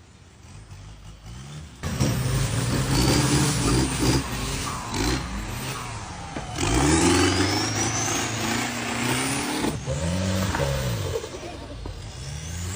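Motor vehicle engine revving up and down, with abrupt changes a few times that sound like cuts between clips.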